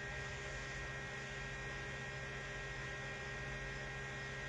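Steady electrical hum: a low drone with a few thin, high, unwavering tones above it, unchanged throughout.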